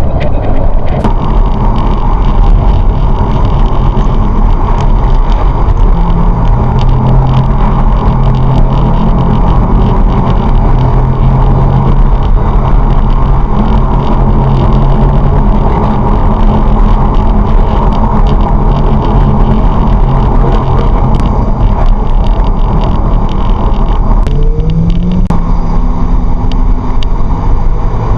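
A car's engine and road noise while driving at speed, with a steady engine hum. The engine note shifts about six seconds in and rises briefly near the end.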